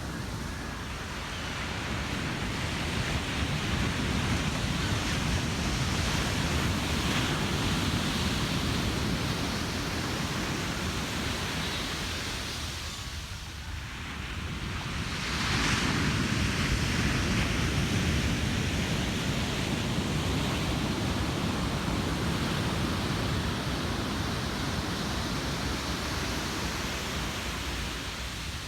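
Ocean surf breaking on a beach: a continuous rushing wash of waves that eases briefly about halfway through, then swells again as another wave crashes.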